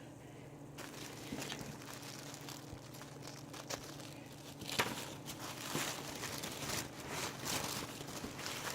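Paper and packaging rustling and crinkling as craft supplies are handled, with a few light knocks, the sharpest about five seconds in.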